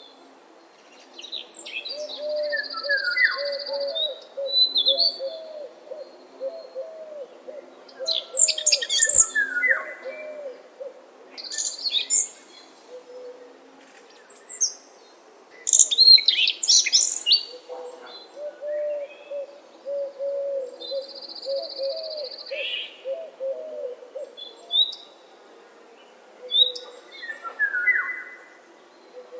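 Several birds singing: scattered high chirps and quick sweeping calls, a held whistle twice, and a lower, rapid series of repeated notes that comes in two runs.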